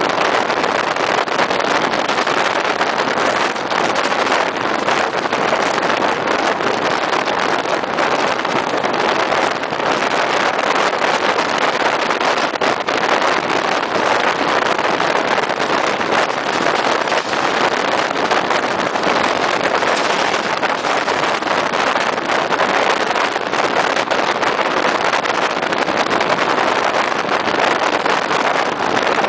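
Steady, loud rushing rumble of a train running at speed: wheels on rails and air rush, with no horn and no rise or fall in level.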